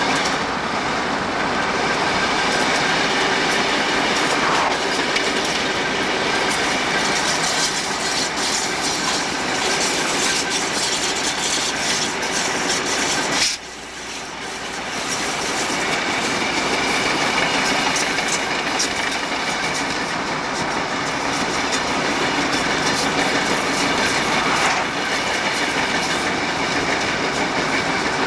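A train of Santa Fe diesel freight locomotives running past at speed, engines and wheels making a steady rumble, with clicking from the wheels over the rails. Heard from inside a car driving alongside, its road noise mixed in. The sound drops briefly about halfway through, then comes back.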